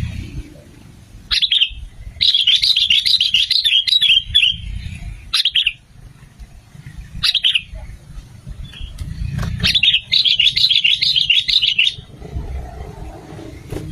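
Sooty-headed bulbul (kutilang) calling: short sharp call notes and two bursts of rapid chattering song, each about two seconds long, the first about two seconds in and the second near ten seconds.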